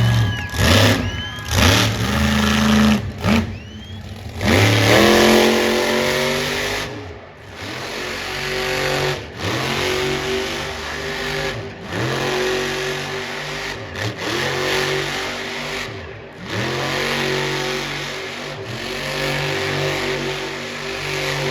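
Monster truck's supercharged alcohol-burning engine revving hard again and again, each rev climbing in pitch and then dropping off, with short sharp blips in the first few seconds and longer revs about every two seconds after that.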